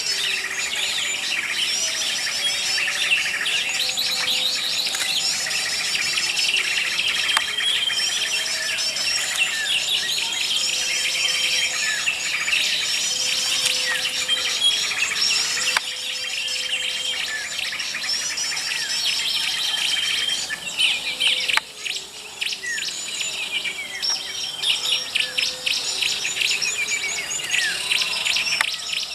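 Many small songbirds calling and chirping over each other, a dense chorus of whistles and trills over a steady high insect-like trill. In the last third the calls turn to rapid chattering.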